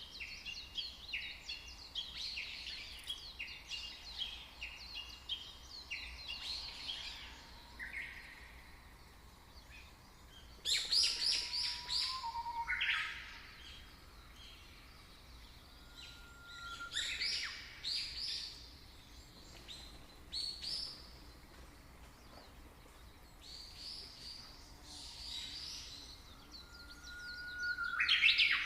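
Songbirds chirping and singing: a fast run of short high notes at first, then separate bursts of song with pauses between them.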